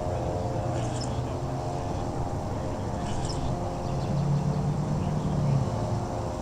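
A steady low drone, like an engine or motor, with a hum that swells for a second or so after the middle. Faint short high chirps sound about a second in and again past three seconds.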